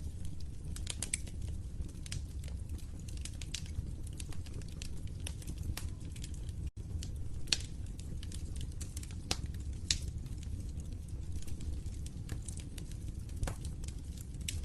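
Wood fire in a fireplace crackling, with irregular sharp pops over a steady low rumble of the burning. The sound drops out for an instant about halfway through.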